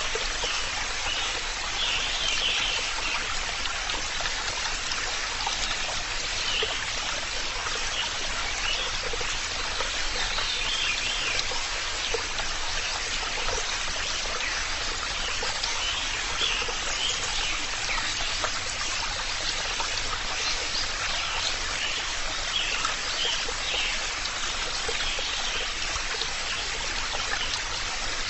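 Steady rushing water of a stream, with faint, scattered bird chirps over it.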